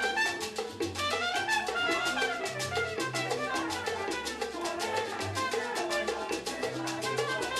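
A Cuban band playing dance music: brass melody over busy, steady percussion and a walking bass line.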